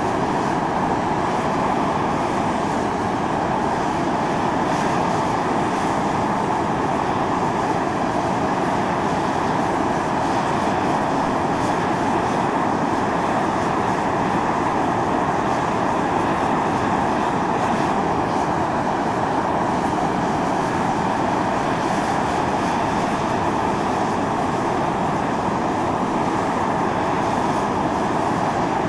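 Volcanic fumarole venting: a steady, loud hiss and roar of steam and gas jetting from a vent on Mt. Io (Atosanupuri), without a break.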